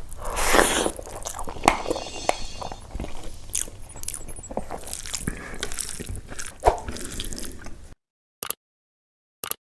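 Close-miked eating of fish curry and rice: wet chewing, biting and squishing with many small clicks and crunches. It cuts off abruptly about eight seconds in, leaving two brief clicks.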